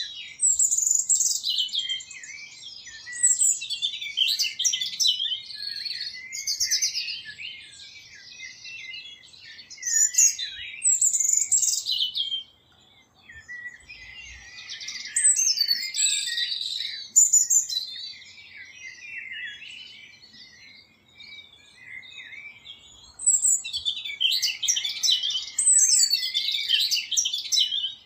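Small birds singing in repeated phrases of high, rapid chirps and twitters, each lasting a few seconds, with short quieter pauses between them.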